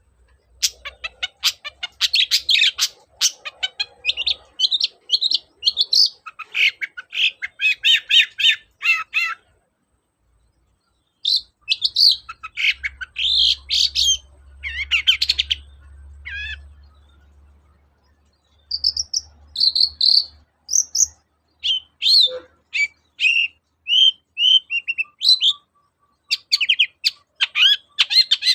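Long-tailed shrike (cendet) singing in fast runs of sharp, varied chattering notes, broken by a pause of about a second and a half just before halfway.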